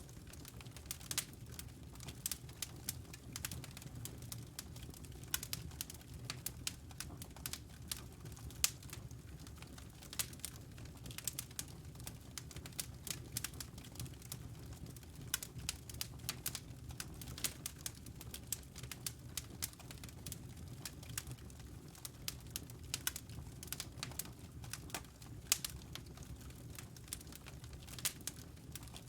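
Wood fire in a fireplace crackling: irregular sharp pops and snaps from the burning logs over a low, steady rumble of the flames.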